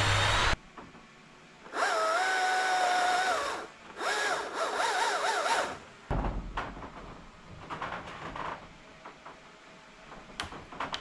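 Power drill running in two bursts of about two seconds each, the first at a steady whining pitch and the second wavering up and down as the trigger is feathered, followed by fainter knocks and clicks.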